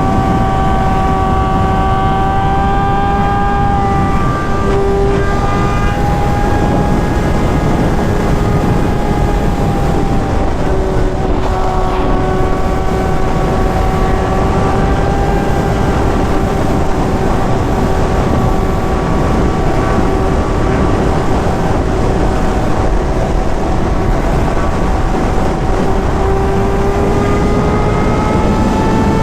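Sportbike engine running at a steady cruising rpm, with strong wind noise on the microphone. The engine note sags a little about ten seconds in and climbs again near the end.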